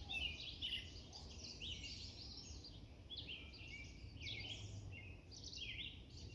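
Several songbirds chirping and singing at once, a dense chorus of short quick notes, over a low steady outdoor rumble.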